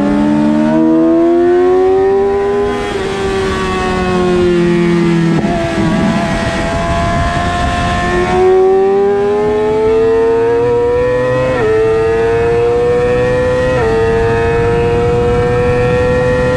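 Suzuki GSX-R600 inline-four racing engine under hard acceleration, heard onboard with wind rush on the microphone. Its pitch climbs, then eases off for a few seconds through a bend. It pulls hard again, with two quick upshifts in the second half that each drop the pitch sharply before it climbs again.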